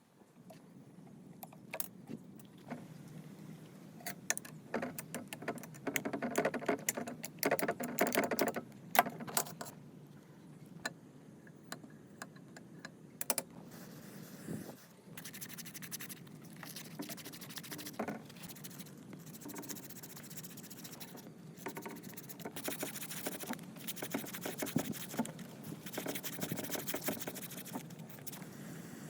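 Irregular clinking, rattling and scraping of small metal parts being handled, with spells of dense rattling about six to nine seconds in and again in the second half.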